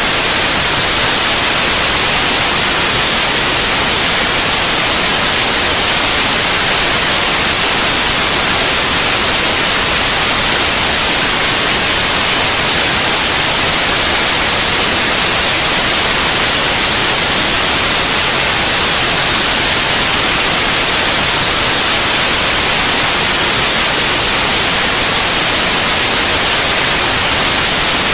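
Steady white noise of the kind played to lull babies to sleep: a loud, constant, even hiss with no changes.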